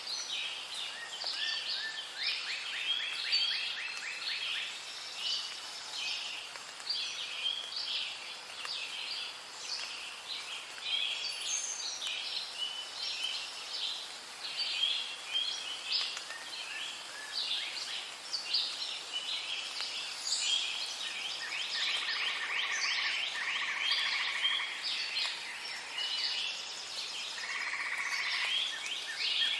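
Rainforest ambience: a dense chorus of many birds calling and chirping over one another, with rapid pulsing trills coming in a few times, over a faint steady hiss.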